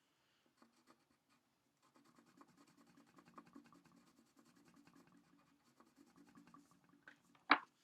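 Crayon rubbing on paper in quick, faint back-and-forth strokes while coloring in, with a short sharp click near the end.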